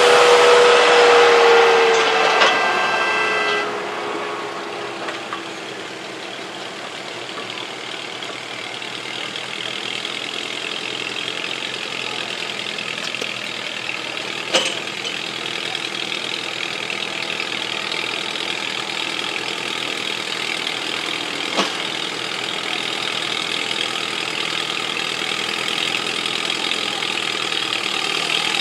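Tractor-pull tractor engine running hard, its pitch sliding down as it throttles back about three and a half seconds in. After that a steadier, quieter engine idle continues, with two sharp knocks in the middle.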